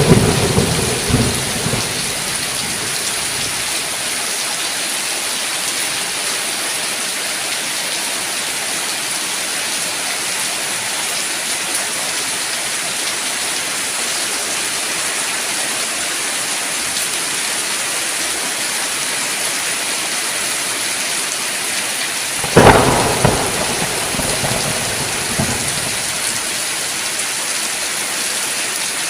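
Steady rain hissing down, with thunder: a clap at the start that rumbles away over a couple of seconds, and a sharp crack of thunder about 22 seconds in that rolls on for a few seconds.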